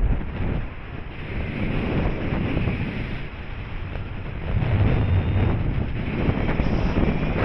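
Airflow buffeting the microphone of a paraglider in flight: a steady rush of wind noise with a low rumble that surges and eases, strongest about five seconds in.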